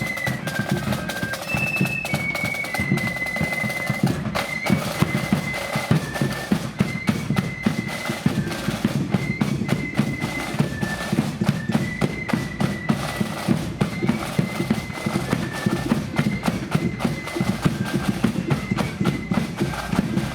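Marching flute band playing a tune: high flutes carry the melody over snare and bass drums beating steadily.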